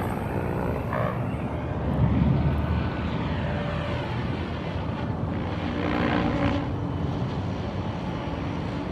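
Radio-controlled model helicopter running, a steady drone whose pitch drifts up and down a little.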